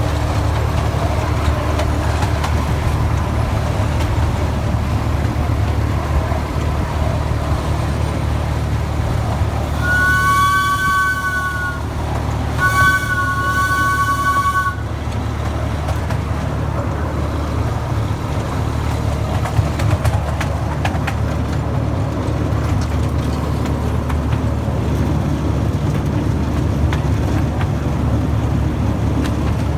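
Miniature railway locomotive running with a steady low rumble. About ten seconds in it sounds its two-note horn twice, each blast about two seconds long.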